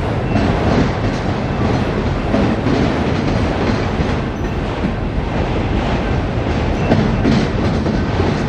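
Freight train of autorack cars rolling past: a steady rumble of steel wheels on the rails, with irregular clicks and knocks as the wheels run over the track.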